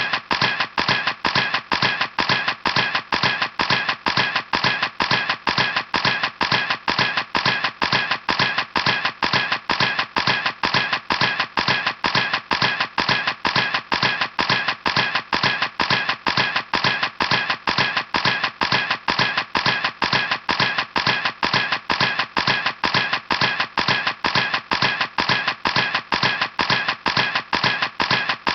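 Camera shutter clicking over and over in an even, steady series of sharp clicks, about three a second.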